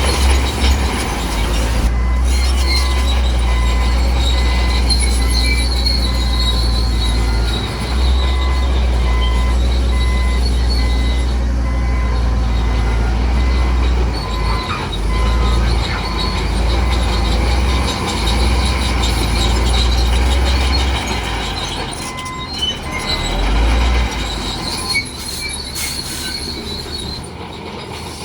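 Bulldozer working, its engine giving a heavy low rumble while its steel tracks squeal and clank with a steady high-pitched squeal. The rumble eases off a few seconds before the end.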